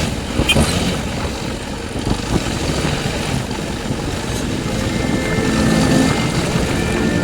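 Jawa Bobber motorcycle's single-cylinder engine running while riding, with wind and road noise over it.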